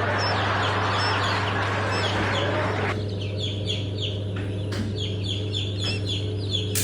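A flock of quail chirping, with many short high calls repeating quickly over a steady low hum. A rushing noise underneath cuts off suddenly about three seconds in.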